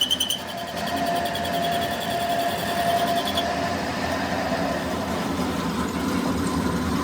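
A rapid mechanical rattle, like a power tool, stops about half a second in, leaving a steady machine hum with a faint whine.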